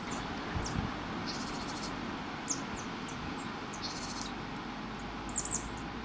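Japanese tits calling: scattered short, high-pitched chirps and a few buzzy notes, loudest in a quick cluster near the end, over a steady background hiss.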